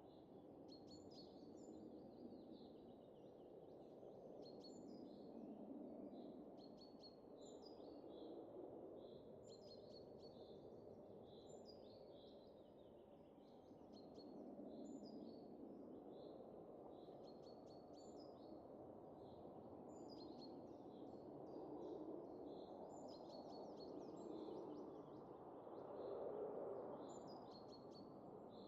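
Faint wind that swells and eases in slow gusts, with small birds chirping in quick, high repeated notes throughout.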